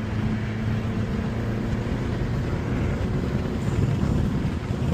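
Steady engine and road noise from inside a moving BMW 330i, a low drone with no sharp events.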